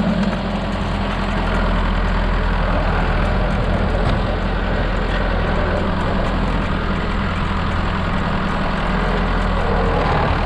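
Small tractor's engine running steadily.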